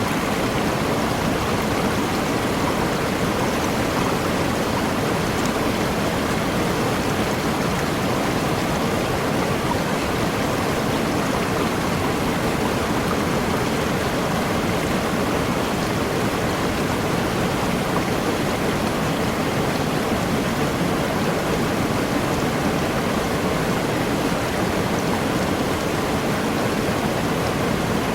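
Waterfall pouring steadily into a forest stream: an even, unbroken rush of water.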